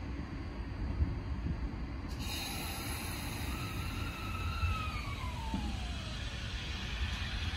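Electric commuter train starting to pull away from the platform: a hiss sets in about two seconds in, then a whine from its traction motors glides steadily down in pitch, over a constant low rumble.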